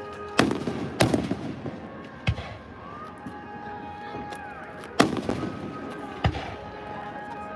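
Aerial fireworks shells bursting overhead: five loud bangs at uneven intervals, the first two close together and trailed by crackling.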